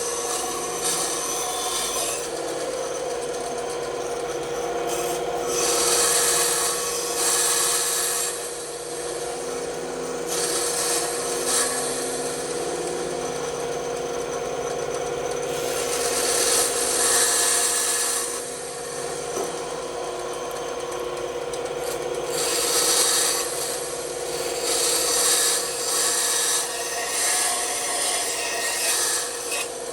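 Bandsaw running with a steady hum while its blade cuts a wooden cut-out, the cutting hiss rising and falling every few seconds as the piece is fed into the blade.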